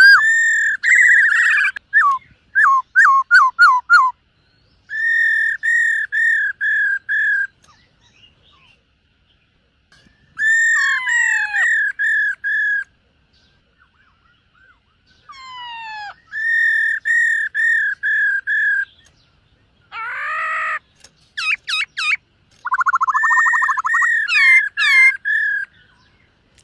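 Black-throated laughingthrush singing: loud, clear whistled phrases of quickly repeated notes, each phrase one to three seconds long, with short pauses between them.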